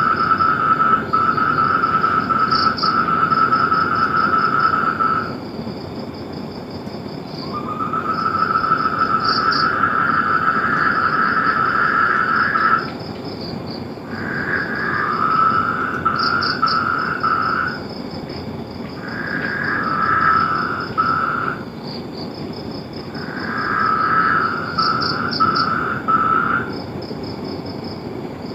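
Frogs calling in long trills, each bout lasting a few seconds, with two callers at slightly different pitches overlapping and answering each other. A fainter, higher pulsed chirping runs alongside, over a steady background hiss.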